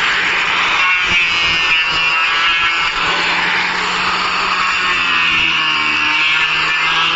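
Handheld electric power tool running steadily, a high motor whine over a hiss with a low hum underneath.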